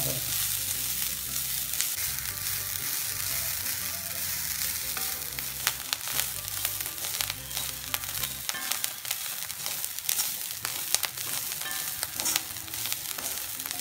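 Grated coconut sizzling as it roasts in a little oil in a wok, with a wooden spatula scraping and clicking against the pan as it is stirred.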